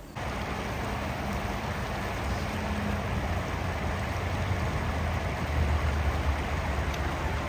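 A steady rushing noise with a low rumble that cuts in suddenly right at the start, like traffic or rain ambience.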